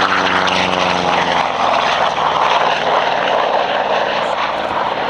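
P-47 Thunderbolt's Pratt & Whitney R-2800 radial engine and propeller in a flypast, its pitch falling over the first two seconds as it goes by, then a steady rushing engine noise.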